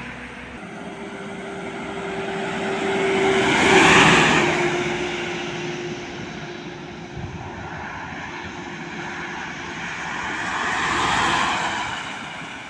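Two trucks passing on a road: the first is loudest about four seconds in, with a steady whine that drops slightly in pitch as it goes by; a second passes near the end.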